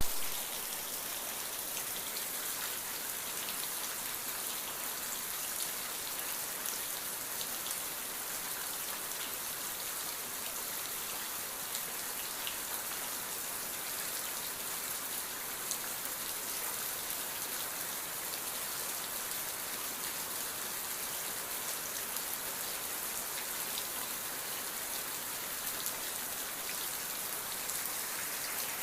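Steady rain falling, an even hiss of rain dense with small individual drop taps. A single brief, louder knock comes right at the start.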